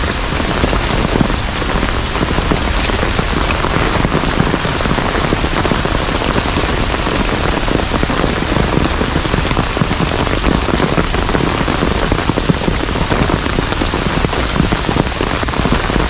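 Heavy rain falling steadily, a loud, even downpour.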